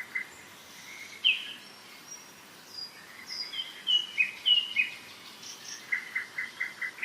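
Songbirds singing in spring woodland: separate chirps and short falling whistled notes, then a quick run of repeated notes near the end, over a steady faint hiss of river water.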